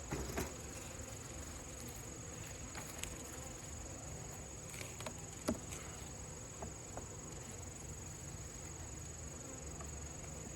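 Steady high-pitched insect chirring over a low buzzing hum from honeybees around an open hive, broken by a few light clicks and knocks, the sharpest about five and a half seconds in.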